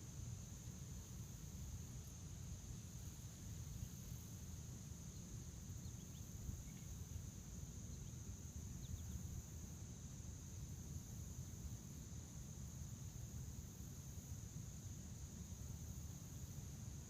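Crickets trilling in a steady, unbroken high-pitched chorus over a low rumble. A few faint short chirps come about five to nine seconds in.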